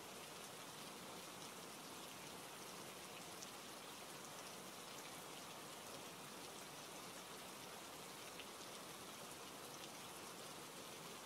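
Steady rain falling: a faint, even hiss of many drops, with scattered individual drops ticking through it.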